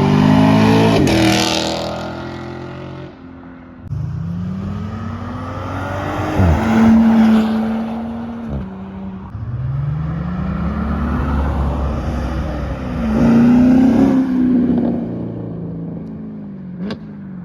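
A vehicle engine revved repeatedly. The pitch winds up in sweeps, holds briefly at the top and drops back to idle, about three times over.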